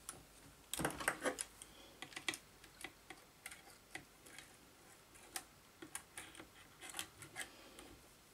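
Irregular light clicks and taps, with a denser, louder cluster about a second in: small parts handled as a new carbon brush is worked into the brush holder of an electric saw motor.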